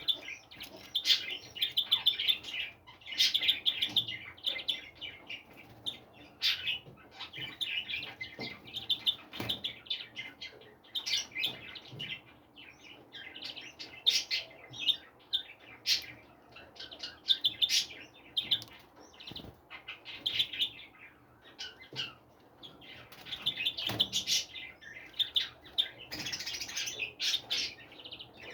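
A group of small birds chirping and twittering continuously, with short sharp clicks scattered among the calls.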